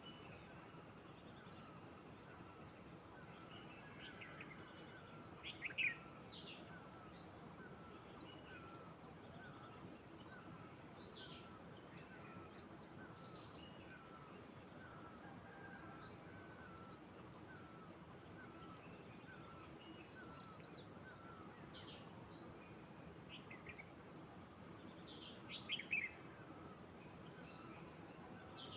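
Several wild birds calling over a faint background: high chirps and trills come and go throughout, one bird repeats a short lower note at an even pace, and louder calls stand out about six seconds in and again near the end.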